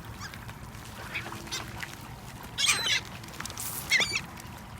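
Seagulls calling over a steady low rumble: a few faint calls in the first couple of seconds, then a loud burst of several calls about two and a half seconds in and another sharp call around four seconds.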